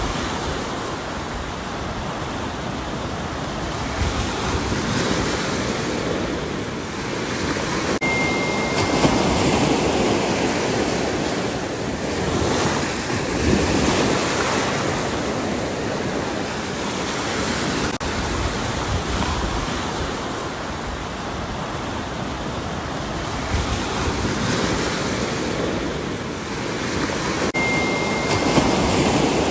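Ocean surf: waves breaking and washing in, a continuous rush of water that swells and eases every few seconds.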